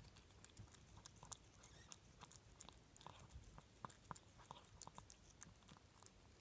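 A pet chewing food: faint, irregular crisp crunches and clicks.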